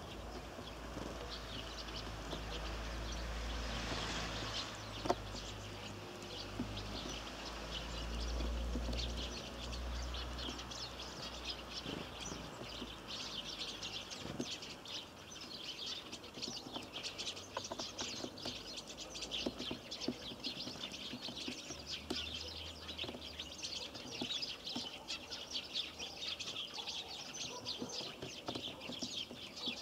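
Small birds chirping at a feeder: many short, high chirps in quick, overlapping succession that grow busier about halfway through, over a low rumble that fades out about halfway in.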